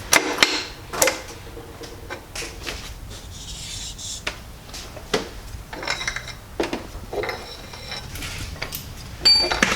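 Scattered metallic clinks and knocks, a few ringing briefly, from steel tools and engine internals being handled while an engine block is taken apart.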